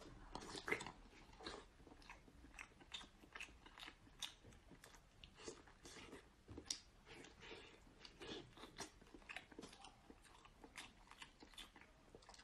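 A person faintly chewing and biting into scallop meat and bread: a steady run of many soft, short mouth clicks and smacks, several a second.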